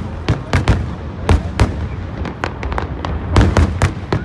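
Fireworks shells bursting in quick, irregular succession: about ten sharp bangs, each trailing off in a short echo, over a low rumble.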